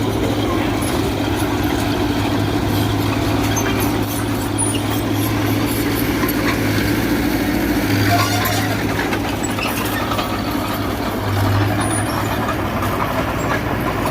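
Small Mitsubishi BD2G bulldozer's diesel engine running steadily under load, with scattered metallic clanks. The engine swells briefly twice, around the middle and again near the end.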